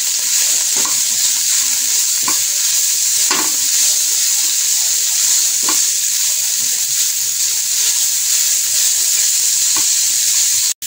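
Shredded boiled chicken frying in a little oil in a kadai, sizzling steadily while a spatula stirs and scrapes it around the pan, with a soft scrape now and then. The sound cuts out for a moment near the end.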